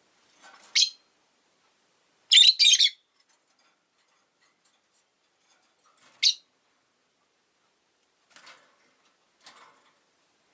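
Rosy-faced lovebirds giving short, shrill calls: one call about a second in, a quick pair of calls a couple of seconds later, another near the middle, then two faint softer sounds near the end, with quiet gaps between.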